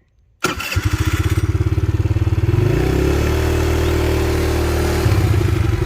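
A small vehicle engine starts abruptly about half a second in and runs with an even, rapid pulse. Its pitch rises around three seconds in as the vehicle pulls away, then holds steady.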